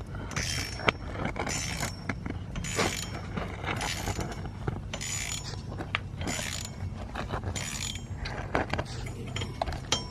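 Hand tools working on metal: repeated scraping or ratcheting strokes about once a second, with a few sharp metallic clicks, over a steady low hum.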